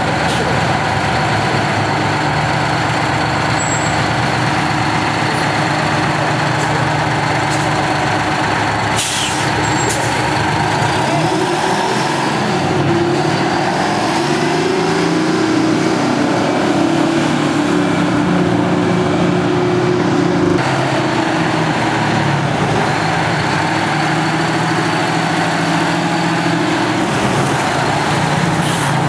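Detroit Diesel 12V-71 two-stroke V12 diesel of an FTF heavy truck running steadily. Its pitch rises a little about a third of the way in and drops again about two-thirds in. There are short bursts of hiss about nine seconds in and at the very end.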